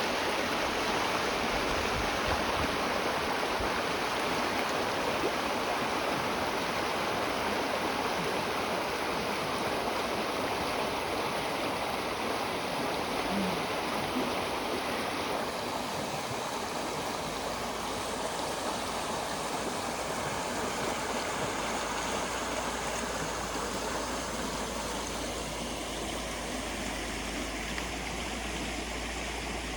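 A small river running high after rain: a steady rush of flowing water.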